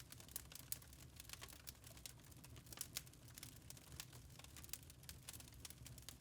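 Wood fire crackling in a fireplace: irregular small pops and snaps over a faint low rumble.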